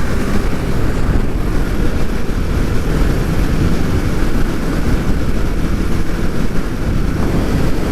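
Kawasaki motorcycle riding along a highway: steady wind rush over the microphone with the engine running underneath, loud and unbroken.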